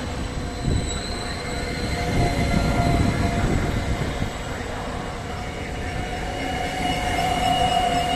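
Trenord TSR double-deck electric train rolling past: a low rumble of wheels on rail, with thin, steady, high squealing tones that grow stronger toward the end.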